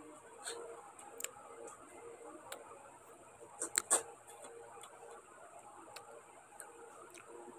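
Close-up mouth sounds of eating by hand: scattered wet chewing clicks and smacks, with a louder cluster of clicks a little after halfway. Under them, the steady hum and hiss of a running electric fan.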